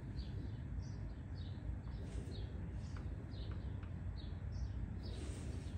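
A small bird chirping repeatedly, short high notes about twice a second, over a steady low rumble. Two brief soft hisses come about two seconds in and near the end.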